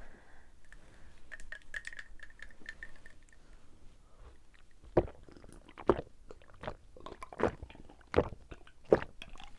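Close-miked chewing and mouth sounds of a person eating. Faint light clicks come first; from about halfway they give way to sharper, regular chewing clicks roughly every 0.7 s.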